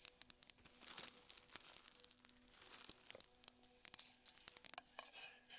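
Faint crinkling and tearing of a packet being opened, likely the soup-mix sachet, with many small irregular clicks.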